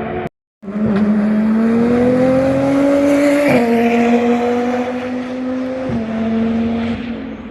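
Racing car engine accelerating hard, its note climbing and then dropping suddenly at two upshifts, about three and a half and six seconds in, before fading away. The sound cuts out completely for a moment just after the start.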